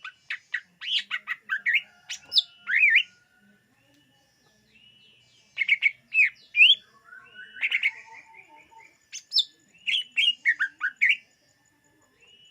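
Cucak ijo (green leafbird) singing in three bursts of fast chirps and whistled notes that sweep up and down, with short pauses between the bursts.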